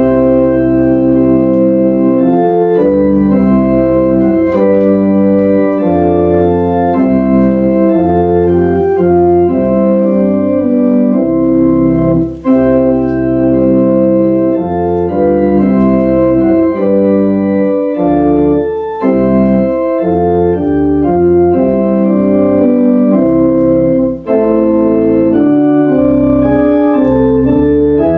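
Organ playing a hymn tune in held, steady chords that change every half second to a second, with brief breaks between phrases about twelve and twenty-four seconds in.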